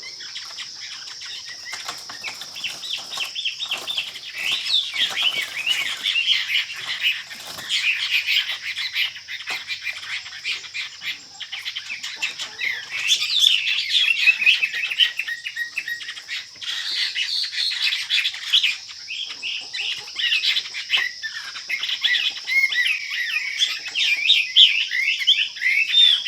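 Chinese hwamei singing a long, rapid run of varied whistled phrases, getting louder after the first few seconds, over a steady high-pitched hiss.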